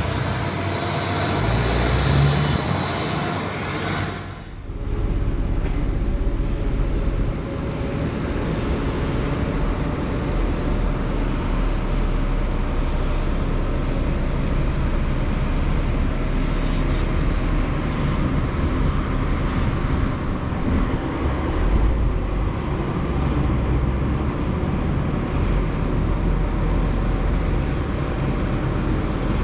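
Heavy farm machinery running steadily, with a brief drop in the noise about four seconds in.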